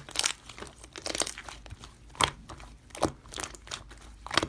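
Slime being squeezed and pressed by hand, giving irregular crackling and popping clicks, with a few louder pops.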